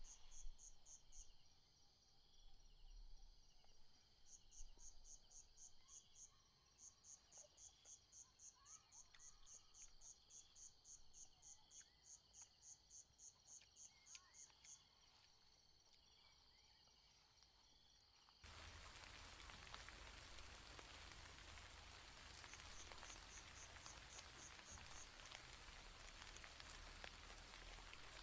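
Insects chirping in fast, even pulses, about three a second, over a steady high insect whine. About eighteen seconds in, a steady hiss of rain starts abruptly and carries on, with a short run of chirps still heard through it.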